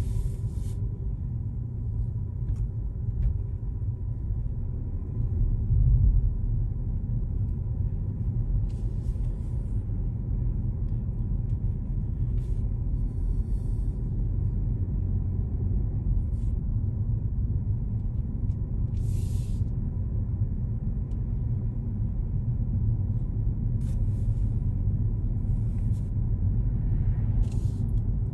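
Car driving on city roads: a steady low rumble of engine and tyres, with a brief louder bump about six seconds in and a few short hisses scattered through.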